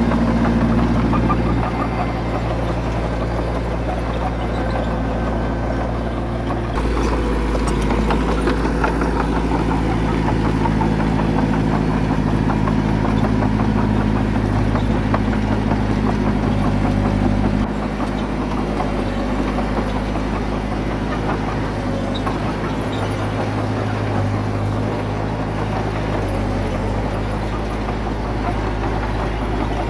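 Heavy diesel engine of earthmoving equipment running without a break. Its pitch and load shift a few times: it eases off about two seconds in, picks up around seven seconds, and drops back a little after about eighteen seconds.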